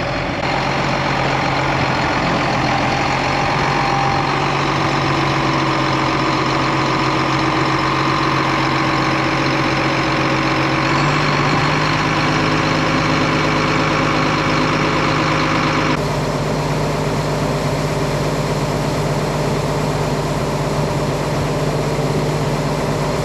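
Tractor engine running steadily under PTO load, driving the grain cart's unloading auger as oats are moved into a wagon. The engine note steps up slightly about halfway through.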